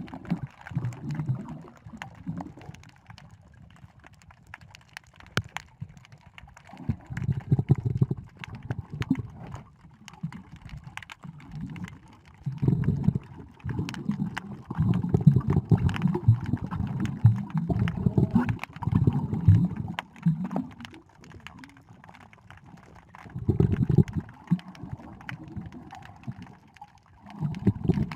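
Water gurgling and sloshing at an underwater camera, in irregular low rumbling surges with quieter stretches between, and scattered small clicks.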